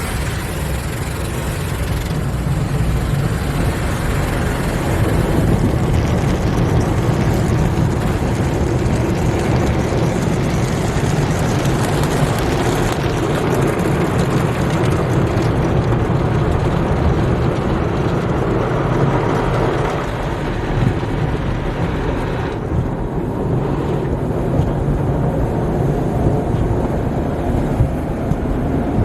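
Sonny's conveyor tunnel car wash equipment working over the car, heard from inside it: a loud, steady wash of noise over a low rumble. The higher hiss thins out about two-thirds of the way through as one stage of the wash ends.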